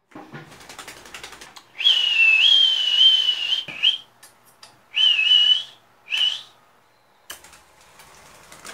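Light clicking, then a clear, slightly wavering whistle held for about two seconds, followed by three short whistles.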